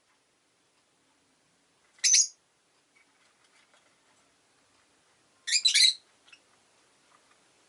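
Rosy-faced lovebird calls: one short, high-pitched chirp about two seconds in, then a quick run of two or three chirps a few seconds later.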